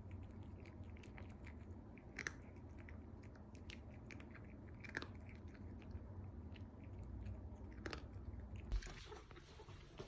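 Brown tabby cat chewing cat food eaten straight from the food container: a run of irregular sharp crunches and bites over a low steady hum.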